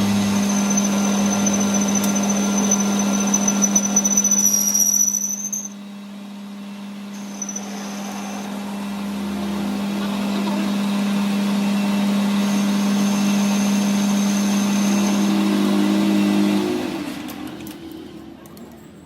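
A workshop machine running with a steady hum and a high whine. It winds down about five seconds in, builds back up gradually, then winds down again near the end.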